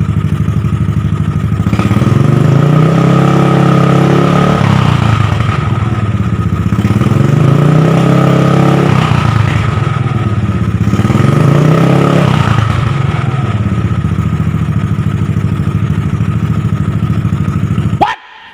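Old Yamaha Mio Sporty scooter's single-cylinder four-stroke engine breathing through an aftermarket WRC racing exhaust with a cone tip, blipped three times from idle to high rpm, each rev rising and dropping back to idle. The sound cuts off suddenly near the end.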